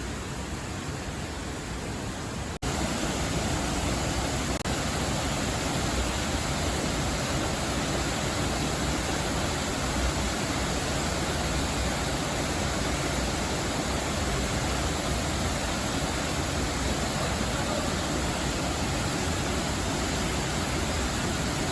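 Rushing river water: a steady, dense hiss that jumps louder about two and a half seconds in, then holds level.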